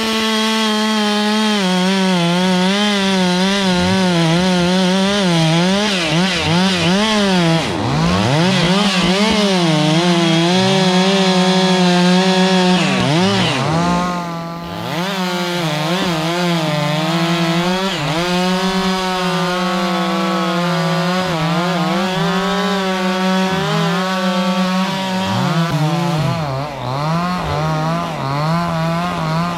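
Stihl chainsaw running at high revs, cutting through kapok wood. Its engine note wavers under load and sags several times, around eight seconds in, again around thirteen to fourteen seconds and near the end, before picking back up.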